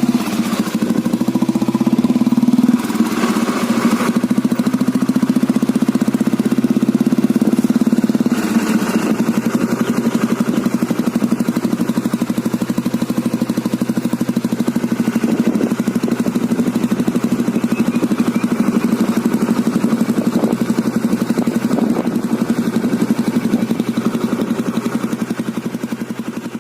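1987 Royal Enfield Bullet 350's single-cylinder four-stroke engine idling with its even, slow thumping beat. It runs a little stronger for the first eight seconds or so, then settles into a steady idle.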